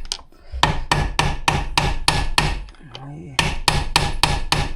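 Rapid hammer blows on the metal parts of a differential, about five or six strikes a second, with two short pauses, one near the start and one about three seconds in.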